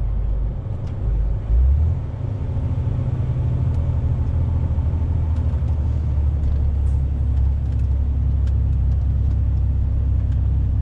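Lorry engine and road rumble heard from inside the cab while driving: a steady low drone, with a brief louder surge about a second and a half in.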